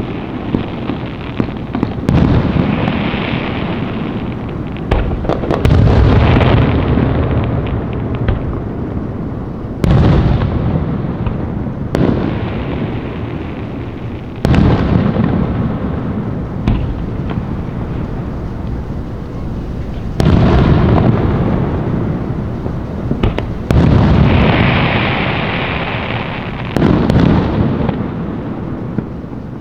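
Aerial fireworks bursting: a sharp bang every two to six seconds, each followed by a long rolling rumble that fades out slowly. A hissing crackle sounds after the bursts about three seconds in and again about twenty-five seconds in.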